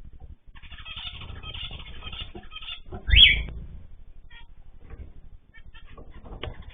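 Small cage birds chirping and twittering together. About three seconds in there is one loud rising call with a low thump, then only scattered chirps until the chatter picks up again near the end.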